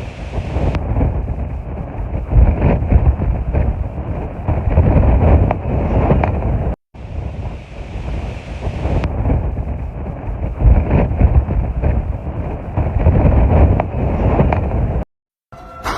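Strong wind buffeting the microphone in gusts, a deep rumbling roar. It breaks off for an instant about seven seconds in and again near the end, where one recording is cut to another.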